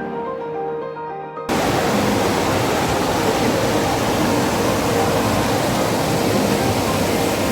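Background music, cut off about a second and a half in by the loud, steady rushing of a waterfall, with faint music still under it.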